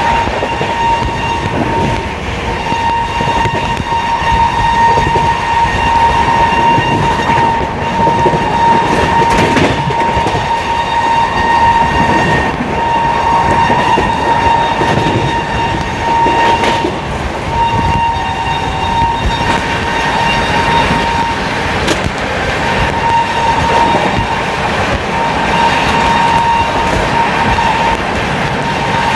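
Passenger train running at speed, with steady noise from the wheels on the rails. Over it a high-pitched steady tone holds almost throughout and drops out briefly several times.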